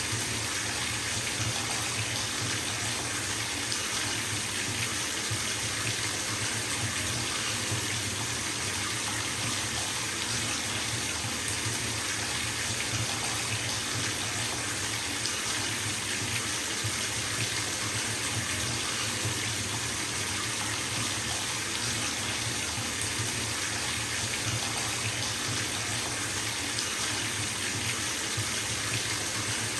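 Bathtub filling from a running tap: a steady stream of water splashing into the tub, an even rushing hiss with a low rumble underneath, unchanging throughout.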